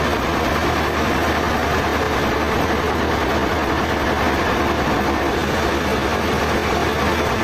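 Sawmill machinery running steadily with a constant, dense mechanical noise.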